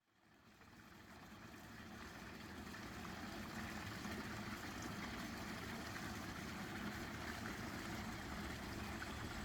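Steady rush of water, fading in over the first few seconds and then holding level.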